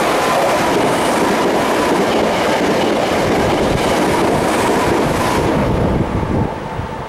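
Hankyu 5300-series electric commuter train passing close by, its wheels and running gear making a loud, steady rushing clatter on the rails. The noise drops away about six seconds in as the last car clears.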